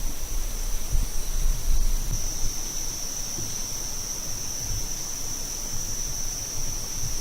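Insects, crickets or cicadas, keeping up a steady high-pitched drone that grows a little stronger after about two seconds. A low, uneven rumble runs underneath.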